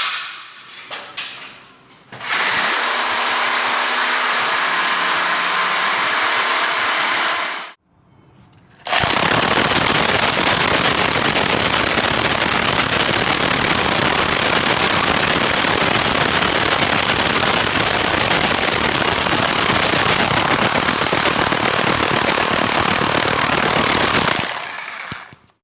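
Hammer drill boring a hole, running in two long steady stretches with a short pause between them.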